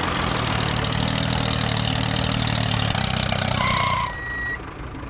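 A vehicle engine idling steadily, then stopping about four seconds in, followed by a couple of short, high electronic beeps.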